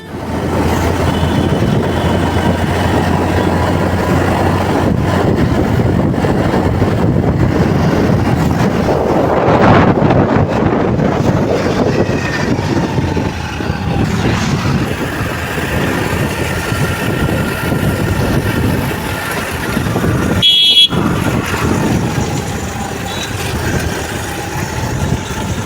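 Road traffic noise with vehicle horns sounding now and then, broken briefly about 21 seconds in.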